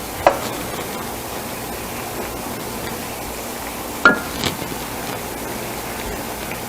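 Two sharp clinks of a kitchen utensil against cookware, about four seconds apart, the second ringing briefly with a small follow-up tap, over a steady hiss.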